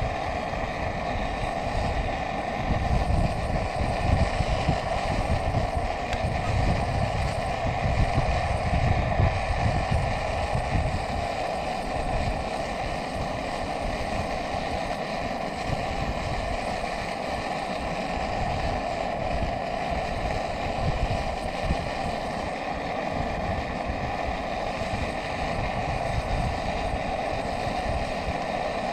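Wind buffeting the microphone in uneven gusts, heaviest in the first third, over a steady rushing sound.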